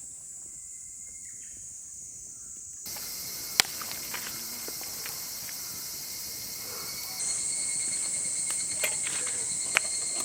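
A steady, high-pitched chorus of night insects, which jumps louder suddenly about three seconds in and again about seven seconds in, with a few sharp clicks over it.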